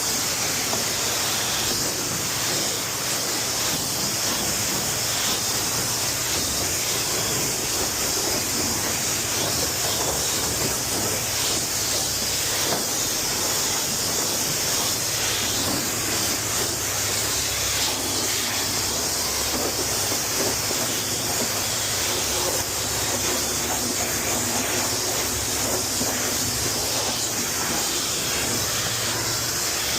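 High-pressure wand of a self-serve car wash spraying rinse water onto a car: a steady, unbroken hiss.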